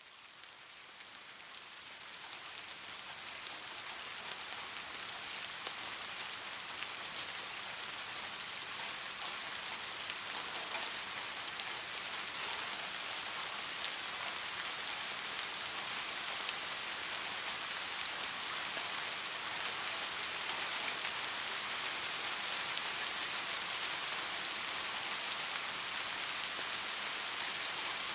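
Steady rain falling: a dense, even hiss of drops. It fades in over the first several seconds, then holds level.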